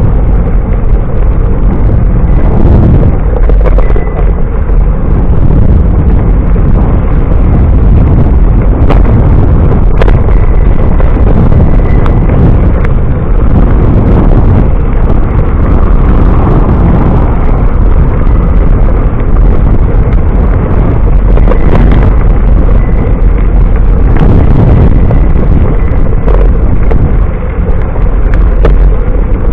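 Loud, steady wind buffeting on the microphone of a camera riding along on a moving bicycle, a dense low rumble with a few faint ticks.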